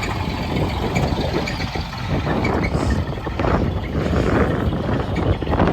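Buick car engine running roughly and unevenly, which the owner judges to be cooked.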